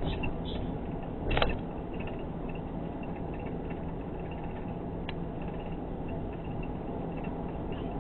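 Car engine running with a steady drone and a low hum, with one brief louder thump about a second and a half in, a sharp tick later and faint intermittent high squeaks. The owner reports uneven turbo boost, the car alternately losing power and surging, with an abnormal noise.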